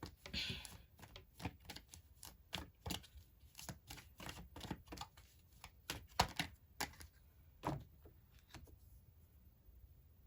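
Tarot cards being handled and shuffled: a string of irregular light clicks and slaps, a few a second, that stops about nine seconds in.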